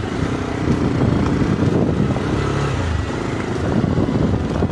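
Motorcycle engine running, its pitch rising and falling a little.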